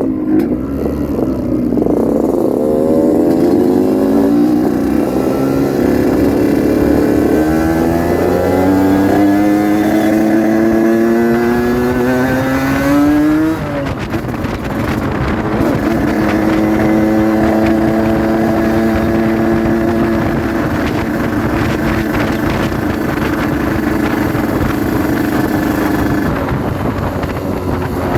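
Yamaha RX-King 135's two-stroke single-cylinder engine pulling through the gears while riding. Its note rises in each gear and drops at an upshift twice, then holds steady cruising revs for the second half.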